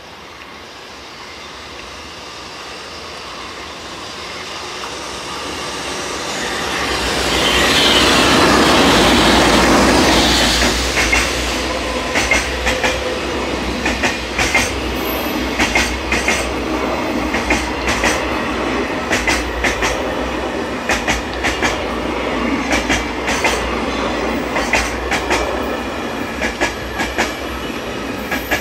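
JR Freight EH200 electric locomotive hauling a container freight train, approaching and passing. It grows louder to a peak about eight to ten seconds in as the locomotive goes by. The container wagons then roll past with a steady clickety-clack of wheels over the rail joints.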